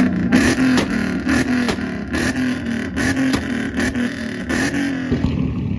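A car engine held at high revs on the rev limiter, its note breaking up about three times a second, with short sharp pops at each cut.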